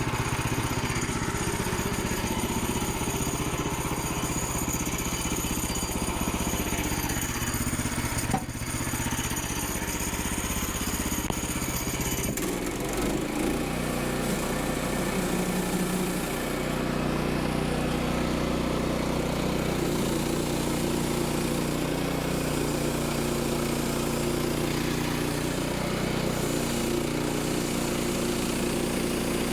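Woodland Mills sawmill's small gasoline engine running steadily. About twelve seconds in its sound changes and a high whine drops out.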